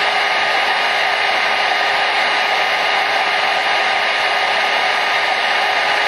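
Hair dryer running steadily, a constant loud rush of air with a faint steady whine from its motor and fan.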